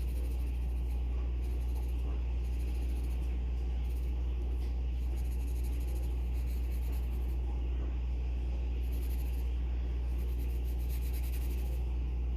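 Pencil scratching on paper in short runs of strokes, coming and going every second or so, over a steady low hum.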